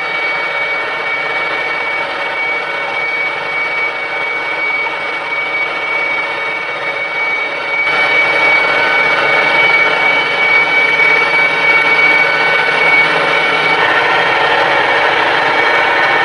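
Engine-driven farm machinery running steadily, with a high steady whine over the engine. It gets louder about eight seconds in.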